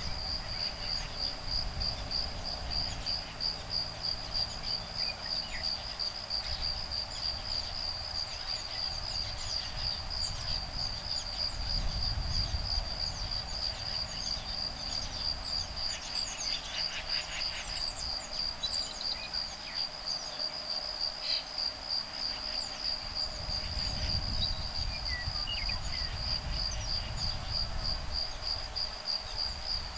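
Insects singing in one steady, rapidly pulsing high trill. Faint scattered bird chirps come over it, with a short burst of calls around the middle. Breeze rumbles low in the background, swelling and easing.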